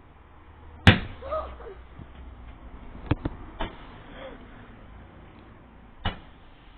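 Fireworks going off: one loud, sharp bang about a second in, then a few fainter cracks a couple of seconds later and another near the end.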